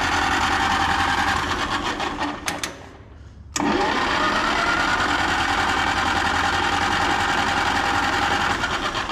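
Electric starter cranking a small gasoline pony starting engine that does not catch, in two steady runs with a short pause about three seconds in. It is given too much gas.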